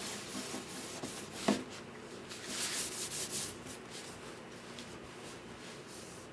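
Hand work rubbing over guitar wood in short, hissy strokes, with a single sharp knock about one and a half seconds in.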